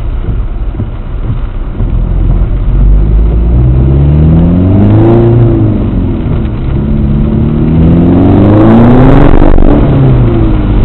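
A car's engine, heard inside the cabin, pulling away and accelerating: it revs up twice, dropping in pitch at the gear changes about five and nine and a half seconds in. A low rumble sits under it in the first few seconds.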